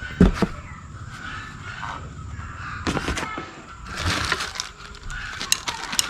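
Packaging being handled during an unboxing: scattered crackles, clicks and rustles, in a few short bursts.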